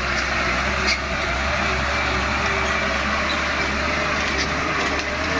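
Heavy truck diesel engine running hard under load, a steady low drone with a noisy rush above it.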